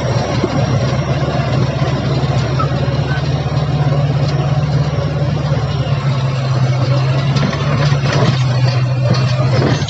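Heavy diesel engine running steadily with a strong low hum; its deepest rumble drops away about six seconds in.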